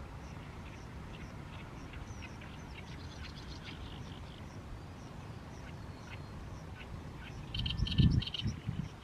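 Oriental reed warbler singing its harsh, chattering song of repeated rasping notes, a phrase about three seconds in and a louder one near the end. A low rumble runs under it, with a strong low thump at the loudest phrase.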